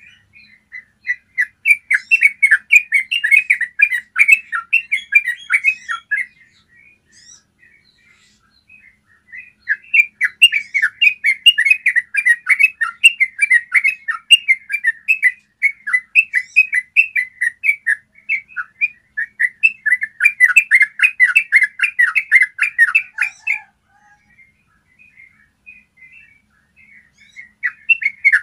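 Yellow-vented bulbul singing its long rolling song, fast runs of quick chattering notes. Three runs with pauses between: a short one near the start, a long one of about fourteen seconds in the middle, and another starting near the end.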